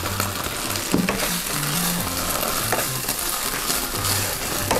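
Ground spice paste sizzling in oil in a wok as it is sautéed and stirred with a wooden spatula, with a few sharp scrapes and knocks of the spatula against the pan about a second in and near the end.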